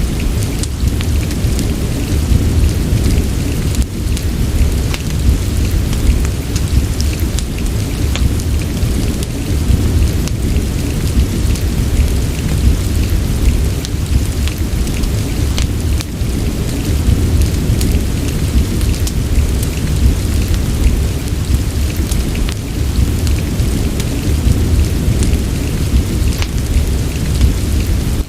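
Steady rain ambience with a heavy, deep low rumble and many scattered sharp ticks over a constant hiss.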